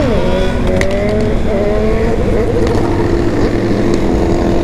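Several remapped sport motorcycle engines running together, loud and continuous: one is revved sharply right at the start and drops back, while others hold their pitch or slowly rise and fall.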